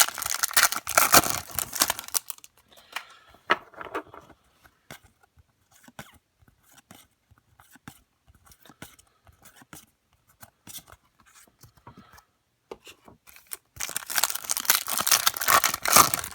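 Trading card pack wrapper being torn open: a loud, crackly tearing at the start and again near the end, with faint clicks of cards being handled in between.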